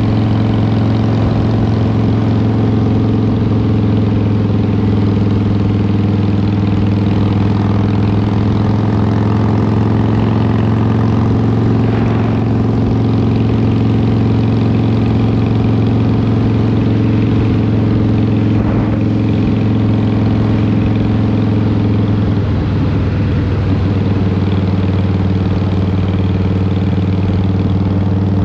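Harley-Davidson Fat Boy's Twin Cam 88 V-twin engine running steadily through Vance & Hines exhaust pipes, with a brief change in its pitch a little over twenty seconds in.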